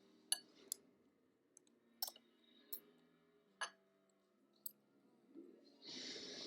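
Eating utensils clicking and clinking against a ramen bowl: about six light, sharp clicks scattered a second or so apart. A louder, breathy noise starts near the end.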